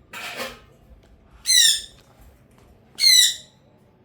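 Pet green parakeet squawking, two loud harsh calls about a second and a half apart, after a short rasping noise at the start.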